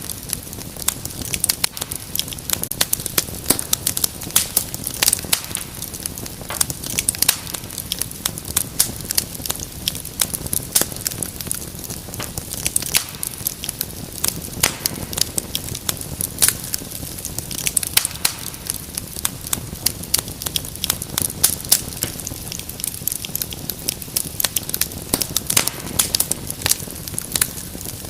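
Wood fire crackling in a fireplace: dense, irregular sharp pops and snaps over a low steady rush of burning.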